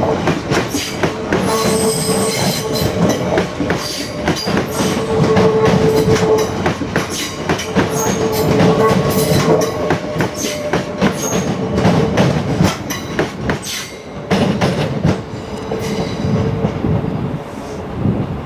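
A train running on rails, with a dense run of sharp clicks and a steady mid-pitched tone that comes and goes several times.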